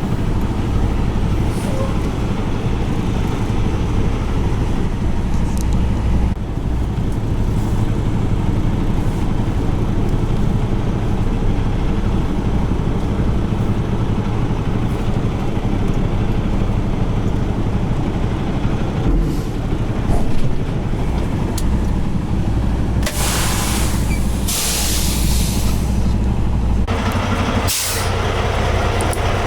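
Semi truck's diesel engine running steadily. Near the end come two long hisses of air from the truck's air brakes.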